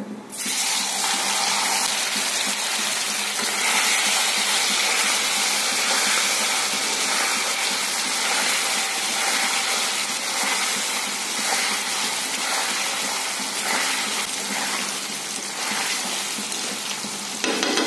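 Marinated paneer cubes frying in hot oil in a steel kadai: a steady, dense sizzle that starts suddenly as the paneer goes into the oil.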